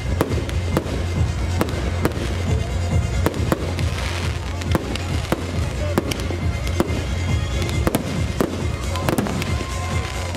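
Fireworks display: aerial shells and rockets going off in sharp, irregular bangs, two or three a second, with crackles between them. Music with a steady deep bass plays underneath.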